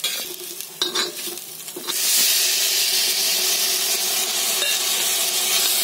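A metal spatula scrapes and knocks in a kadhai a few times. About two seconds in, a loud, steady sizzle starts suddenly as chopped tomatoes fry in hot oil.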